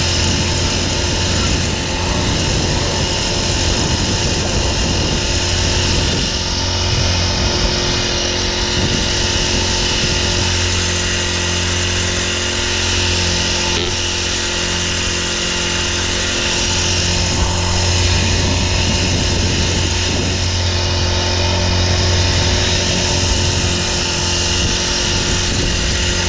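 A small engine-driven machine running steadily at a constant speed, with a strong low hum and many steady tones above it.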